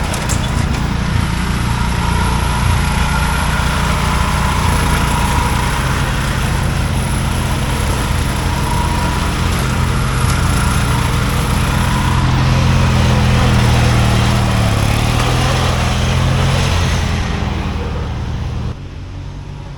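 Riding lawn mower engine running hard and steadily, its pitch rising a little past the middle, then falling away sharply near the end.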